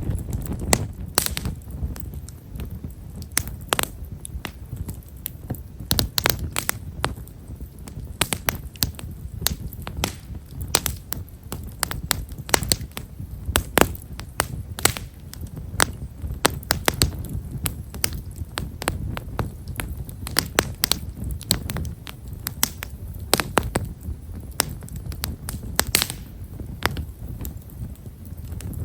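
A wood fire of Japanese stewartia (himeshara) firewood, crackling with many small, irregular pops over the low rush of the flames. The crackle is fine and fairly quiet.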